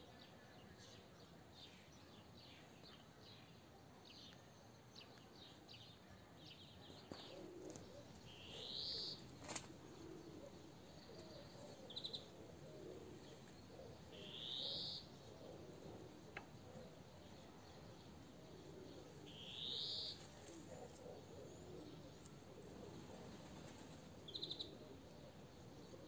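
Songbirds singing faintly in the open air. A run of quick high chirps comes first, then a clear rising whistled note about every five or six seconds, with short paired notes in between.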